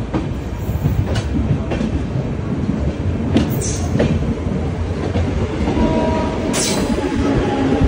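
Passenger train coach rolling slowly out of the station: a steady wheel rumble with irregular clicks and clacks as the wheels run over rail joints and points, heard from the open doorway. From about six seconds a steady whine joins as a Mumbai suburban EMU local train passes on the next track.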